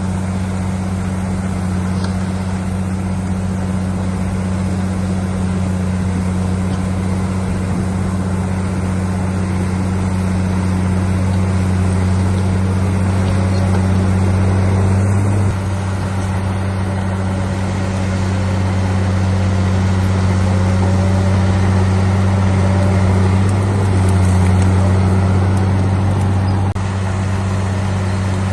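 Heavy diesel engine of earthmoving machinery running steadily with a deep, even drone, dipping briefly about halfway through and again near the end.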